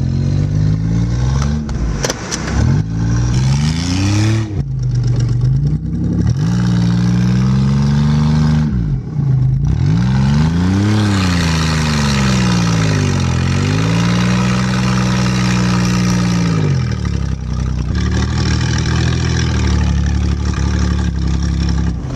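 A vehicle engine revving up and down several times, its pitch rising and falling, then settling to a steady run for the last few seconds.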